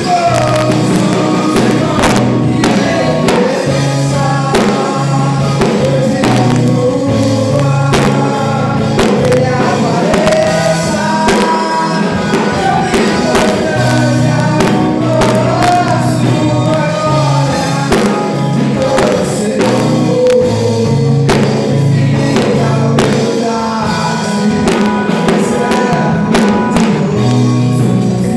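Gospel worship music: voices singing over instrumental accompaniment with a steady beat and a low bass line.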